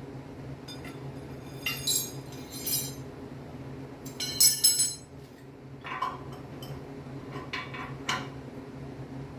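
Small hard objects, likely metal, clinking and rattling in several short bursts, the loudest about halfway through, over a steady low hum.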